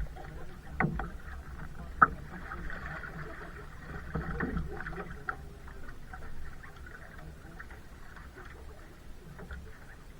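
A kayak being paddled: uneven water splashing from the paddle, with a sharp knock about two seconds in, over a steady low rumble.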